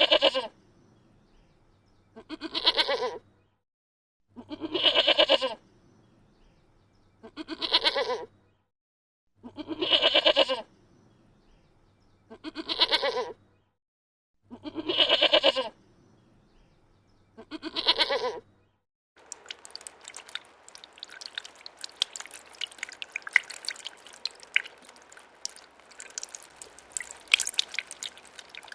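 A goat or sheep-type bleat, a wavering call about a second long, repeated eight times at even spacing of roughly two and a half seconds. About nineteen seconds in, it gives way to a dense patter of sharp clicks and drips.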